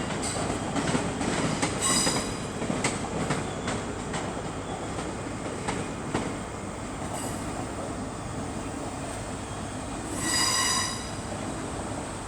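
Scotrail Class 385 electric train at the platform: steady train and rail noise with a few sharp clicks in the first few seconds. About ten seconds in, a high squeal sounds for about a second.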